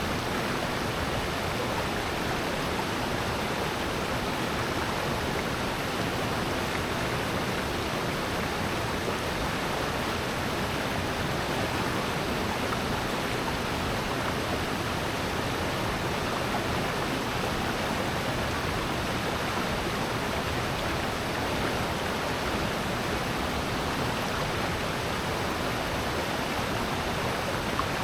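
Valley stream and waterfall, water rushing in a steady, unbroken wash.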